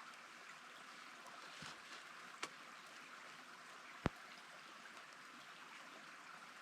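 Faint steady rushing of a stream, with three sharp knocks, the loudest about four seconds in.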